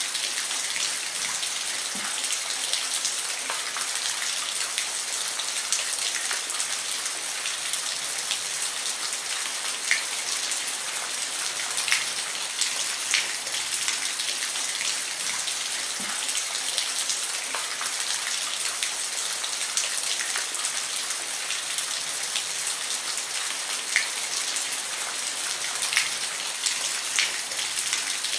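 Steady rain falling on a roof, a continuous hiss with individual drops ticking sharply here and there.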